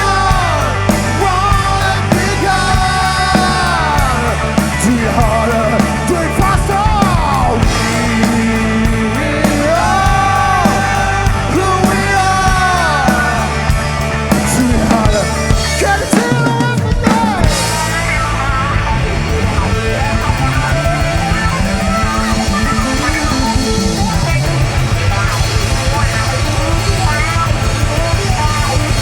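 Live rock band playing an instrumental passage with drum kit, bass and bending guitar lines, with a brief break about halfway through.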